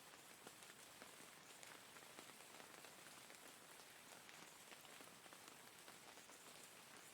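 Faint, steady rain, with many individual drops striking a surface over a constant hiss.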